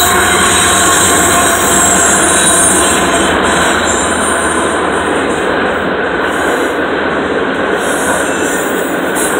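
A CSX diesel freight train passing close by. The trailing locomotive goes past in the first few seconds, and about three and a half seconds in the sound eases slightly into the steady noise of empty auto rack cars rolling on the rails.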